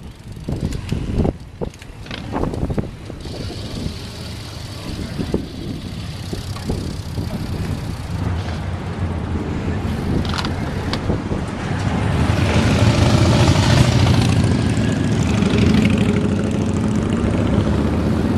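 Wind and road noise on a camera carried on a road bike ride, a steady low rumble that swells about twelve seconds in, with a few sharp knocks near the start.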